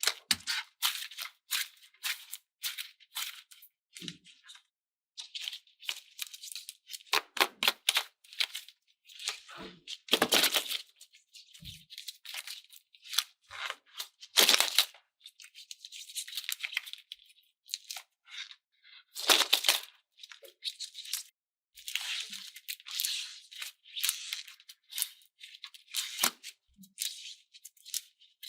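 Irregular crinkly crackling and rattling from slime and craft materials being handled, in uneven bursts with short pauses.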